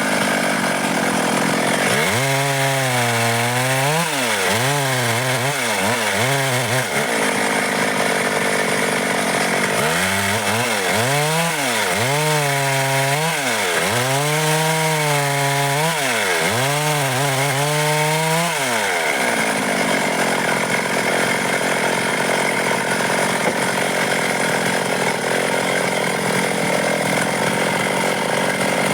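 Stihl MS 382 two-stroke chainsaw cutting dry wood. Through two stretches its engine pitch swings up and down about once a second, and from about two-thirds of the way in it runs at a steady high pitch.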